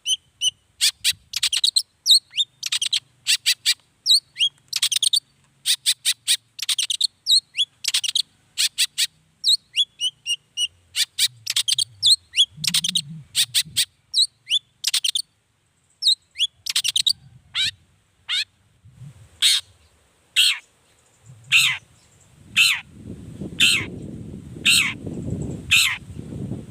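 Long-tailed shrike (cendet) singing: a fast stream of sharp chattering and whistled notes. After about nineteen seconds it settles into a regular series of harsh calls falling in pitch, about one every three-quarters of a second. A low rumble comes in underneath near the end.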